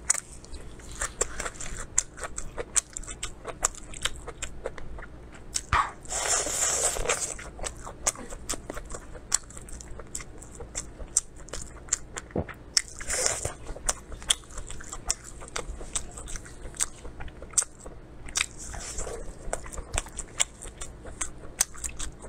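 Close-miked chewing of sauced food, full of sharp wet mouth clicks and lip smacks, with two longer, louder wet sucking or slurping sounds about six seconds in and again around thirteen seconds.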